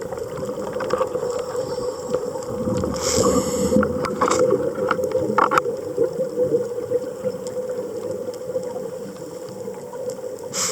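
Underwater sound on a scuba dive: a steady hum under hissing bursts of exhaled bubbles from a diver's regulator, one about three seconds in and another near the end.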